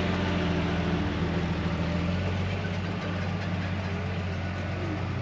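Holden FJ's straight-six engine running steadily at idle.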